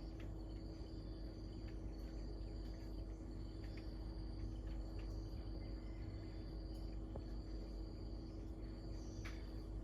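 Insects trilling: a steady high-pitched trill that breaks off briefly every second or two, over a low steady rumble and hum.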